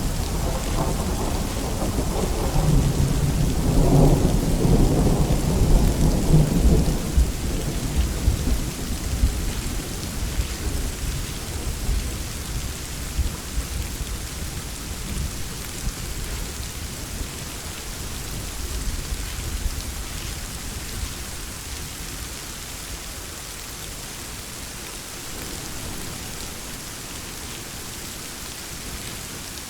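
Steady rain falling with a long roll of thunder that swells to its loudest about four to six seconds in, then rumbles away over the next several seconds, leaving only the hiss of the rain.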